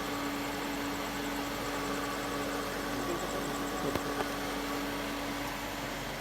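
Steady mechanical hum with one constant tone under an even background noise, like a running motor.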